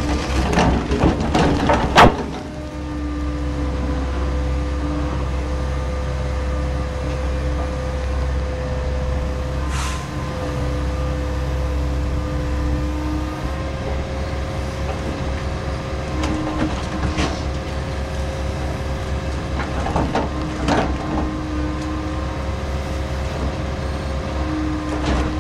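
Liebherr log loader's diesel engine running steadily, with a higher tone that rises in and out as the machine works. Logs clatter and knock in the first two seconds, ending in one sharp loud knock, and a few single knocks follow later.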